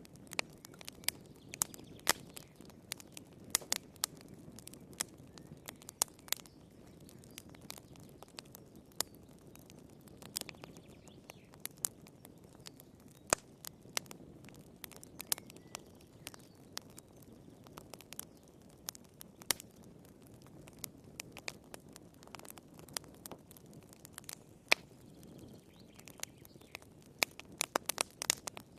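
Wood fire crackling in a fireplace: irregular sharp pops and snaps, a few each second, over a soft low rumble of burning.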